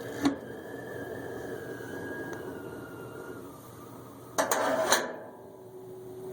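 Wind noise after a new cap was fitted: a steady rush with a thin whistle that slowly drops in pitch, then a brief loud clatter a little over four seconds in, after which a lower steady tone carries on.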